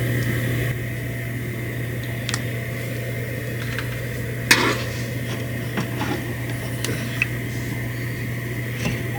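Steady mechanical hum with a faint high whine, with a few light clicks and knocks and one sharper clatter about four and a half seconds in.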